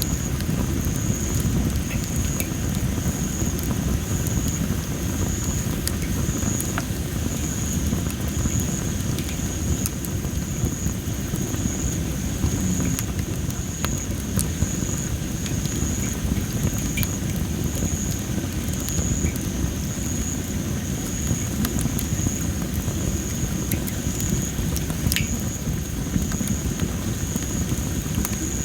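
Well-dried masaki (Japanese spindle tree) firewood burning in an open fire pit, crackling with scattered sharp pops over a steady low rush. A thin high-pitched chirp repeats about once a second throughout.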